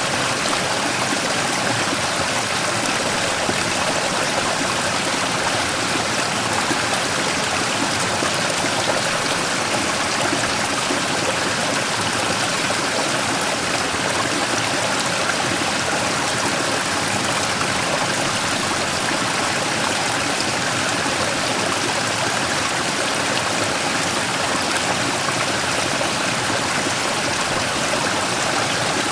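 Mountain stream flowing over and around a large rock, with small cascades: a steady rush of water with some trickling, even throughout.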